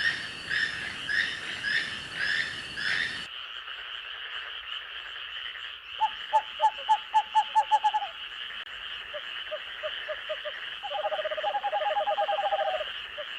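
Night forest chorus: a steady high insect drone, with frogs calling over it. About six seconds in comes a run of about ten loud croaks, then softer croaks and a rapid trill near the end. In the first three seconds a repeated chirping call, about twice a second, cuts off abruptly.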